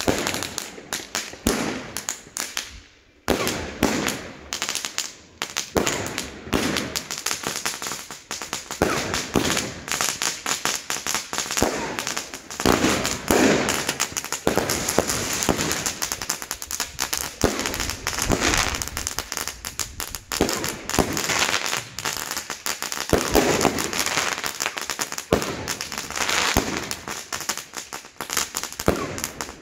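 Aerial consumer fireworks going off in a dense, continuous run of bangs and crackling, with a brief gap about three seconds in.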